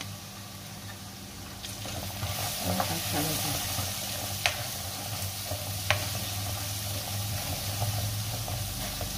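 Curry paste thinned with water sizzling in hot oil in a wok, the sizzle swelling about two seconds in as it is stirred into the fried aromatics with a wooden spatula, which knocks sharply against the pan twice.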